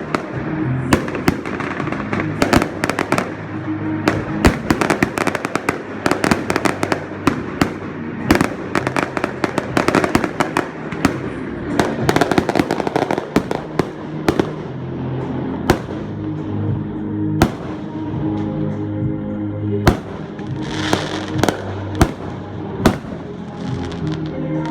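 Fireworks going off in a fast barrage of bangs and crackles, thinning to separate bangs a few seconds apart in the last third. Music plays underneath.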